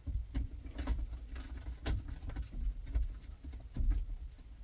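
Irregular metallic clicks and knocks of a socket wrench being fitted to and worked on the rusted accelerator-pedal pivot bolts, freed with penetrating oil, with a low handling rumble underneath.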